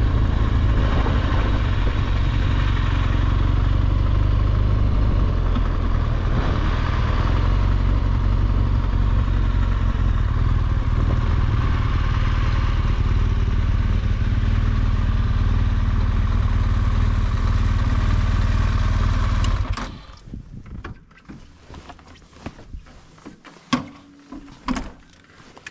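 BMW R1200GSA flat-twin motorcycle under way, its engine and the rush of wind running loud and steady. About twenty seconds in the noise cuts off abruptly, leaving a few light clicks and knocks.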